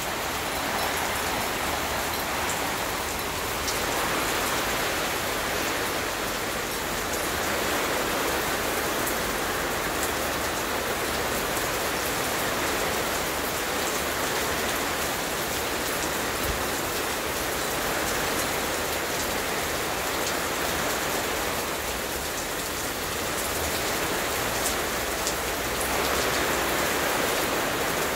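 Steady rain falling, an even hiss that holds level throughout, with scattered faint sharp ticks of drops.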